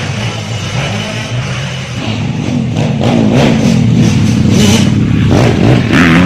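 Motorcycle engine revving, its pitch rising and falling, growing louder about two seconds in.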